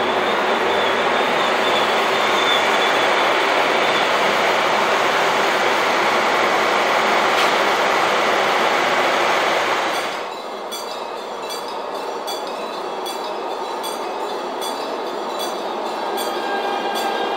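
Korail electric locomotive and Mugunghwa passenger coaches running past close by, a loud steady rush of wheels on rail. About ten seconds in the sound drops to a quieter passage with regular ringing strikes, a level crossing's warning bell sounding as the locomotive rolls across the road, its tone steadier near the end.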